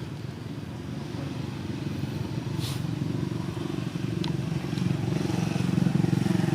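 A small engine running with a fast, even pulse, steadily growing louder toward the end, like a motorcycle approaching. A short hiss sounds about a third of the way in.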